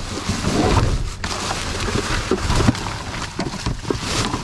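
Rustling and scattered knocks of trash and junk being shifted about in a dumpster.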